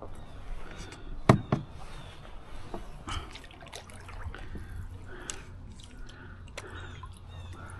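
Canoe paddle strokes in water, with dripping and trickling off the blade, and two sharp knocks a little over a second in.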